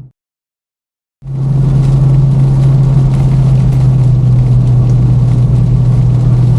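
Car engine and road noise droning steadily at cruise, heard from inside the car, with a strong low hum that holds one pitch. The sound drops out to silence for about a second at the start, then comes back at full level.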